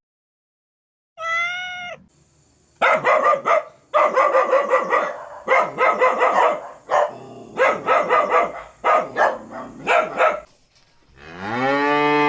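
A short cat meow about a second in, then a long run of rapid, harsh animal calls repeating several times a second, ending with a cow mooing, one long low call that rises and falls.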